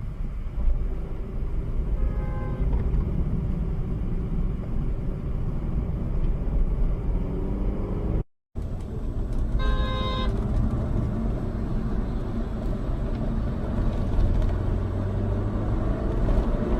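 Steady road and engine rumble of a car on the move, with a faint car horn about two seconds in. The sound drops out for a moment after about eight seconds, and a loud car horn honks for about half a second around ten seconds in.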